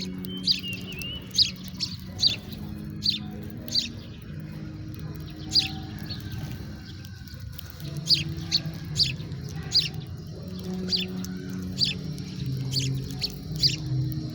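House sparrow chirping: single short chirps, repeated irregularly about once or twice a second. Soft background music with low sustained notes plays underneath.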